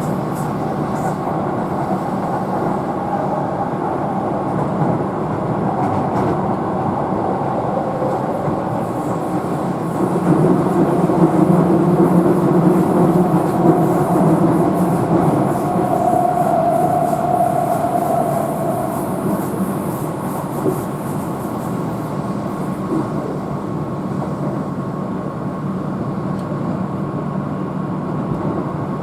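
Keihan electric train running at speed, heard from inside the carriage: a steady rumble of wheels on rail with a thin steady tone over it. The noise grows louder about a third of the way in and eases again past the middle.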